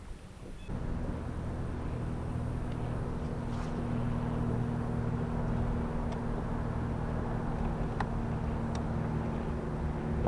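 A motor running steadily with a low, even hum, starting abruptly about a second in, with a couple of light clicks near the end.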